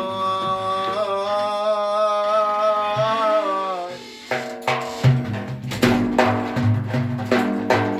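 A man singing one long, wavering held note of a religious praise song (madih), which fades out just before the halfway point. Drum strokes then take over in a steady beat, about three a second, over a lower held tone.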